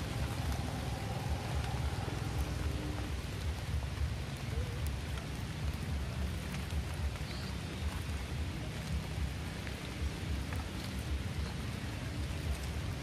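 Steady rain falling on puddles and wet muddy ground, with individual drops ticking close by.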